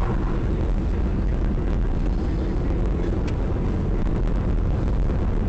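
Steady low rumble of a car's engine and tyres heard from inside the cabin, as picked up by a dashcam while driving.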